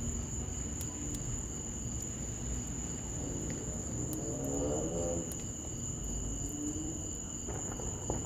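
Steady chorus of crickets singing, with the occasional sharp crackle of a burning wood fire and a low rumbling background. A brief low pitched sound rises and falls about four to five seconds in.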